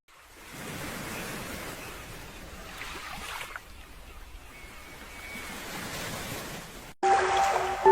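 Sea waves washing onto a pebble beach, a steady rushing noise that fades in and swells and eases.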